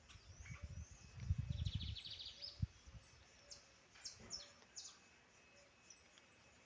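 Small songbirds chirping, with one quick high trill about a second and a half in and several short high chirps a little later, over a low rumbling and thumping in the first two seconds.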